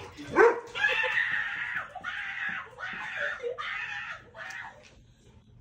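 Dog barking in a quick run of about six barks that fade near the end.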